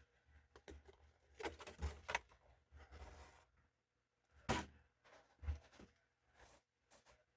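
Hands handling toy blind-box packaging: scattered soft rustles, light taps and low thumps, with a sharper rustle about four and a half seconds in.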